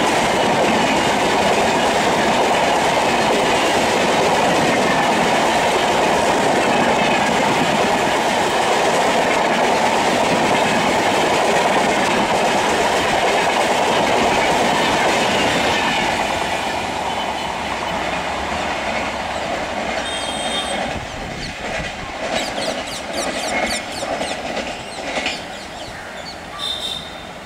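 Train of LHB passenger coaches rattling past at speed, wheels clattering over the rail joints in a steady clickety-clack. The noise dies away about sixteen seconds in, leaving quieter, uneven noise with a few scattered short sounds.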